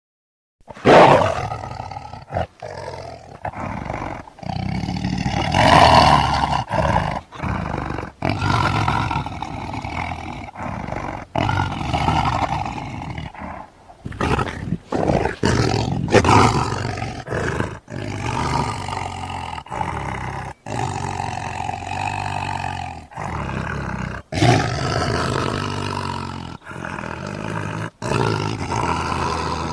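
Demon roar and growl sound effects, loud and gravelly, cut one after another with abrupt breaks every second or two. They start about a second in, after a moment of silence.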